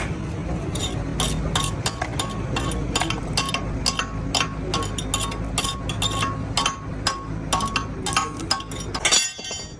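A hammer striking steel repeatedly, about three blows a second, each with a short metallic ring, over a low steady rumble. A last, loudest blow comes near the end.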